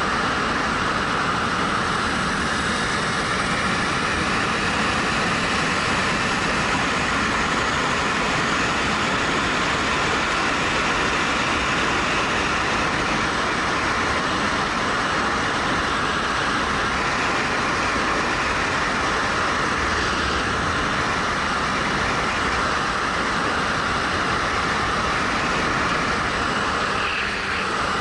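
Steady rush of wind and road noise on a helmet-mounted action camera while a 2013 Suzuki GW250 motorcycle is ridden at speed, with no clear engine note standing out.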